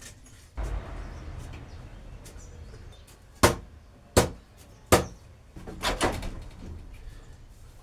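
Three sharp knocks about three-quarters of a second apart, after a rustling scrape, followed by a short clatter of several knocks.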